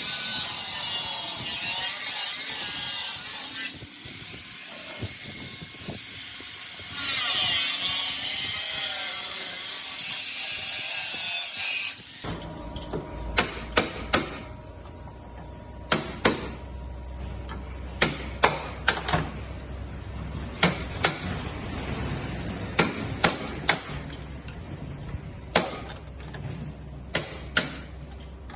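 A power tool working the car's metal bodywork, a loud wavering high-pitched grinding with a short lull in the middle. About twelve seconds in it cuts to irregular sharp taps, like hammer strikes on sheet metal.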